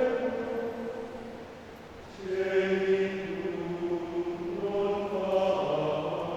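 Men's choir singing slow, sustained chords. One chord dies away over the first two seconds, a new held chord comes in about two seconds in, and the harmony moves again near five seconds.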